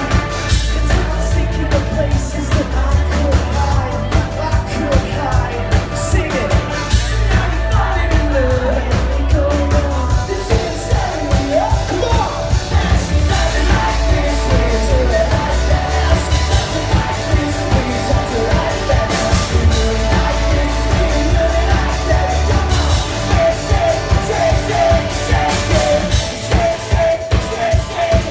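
Live synthpop band playing through a hall's loud PA: steady beat, heavy bass and synth with a singing voice, as heard from the crowd.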